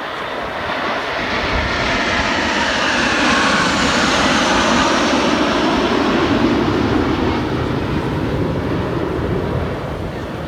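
Fixed-wing aircraft flying past with a loud engine roar. It swells over the first few seconds, stays at its loudest through the middle, falls in pitch as it passes, and eases off near the end.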